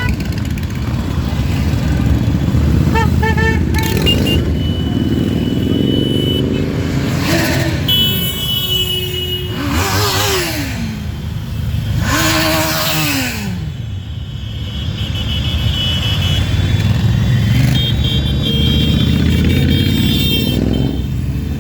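A stream of motorcycles riding past, engines running with several revs that rise and fall in pitch as bikes go by. Horns sound on and off, most of all in the last few seconds.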